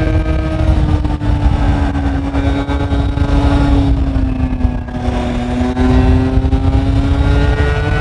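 Honda Spree scooter's 49cc two-stroke single running under way through an S23 aftermarket exhaust. Its note sags slightly, then climbs steadily in pitch from about five seconds in as it picks up revs, over a heavy low rumble.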